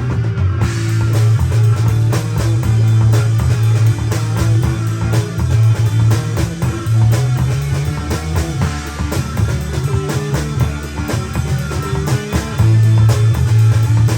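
A rock band playing an instrumental passage: guitar over a heavy, sustained bass line and a steady drum-kit beat.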